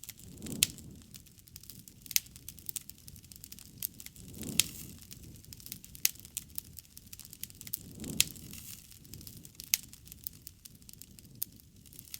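Wood fire crackling, with many irregular sharp snaps and pops. A soft low swell rises and falls three times, about every four seconds.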